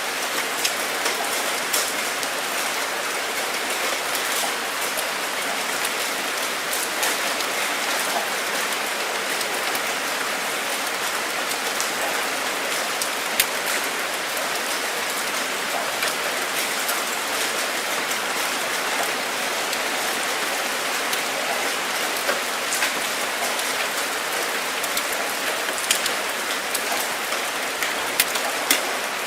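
Steady rainfall, an even hiss with scattered sharp drop ticks now and then.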